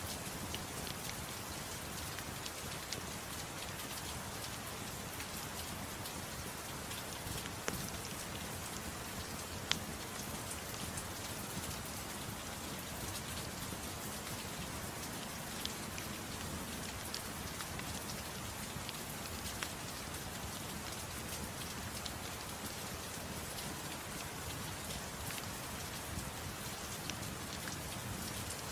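Steady soft rain falling, an even hiss with a few sharp pops scattered through it.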